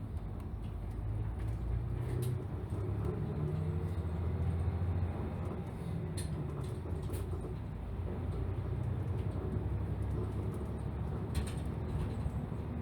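Diesel engine of a city route bus heard from inside the passenger cabin while the bus is under way. Its low drone rises and falls in pitch, with a few light clicks.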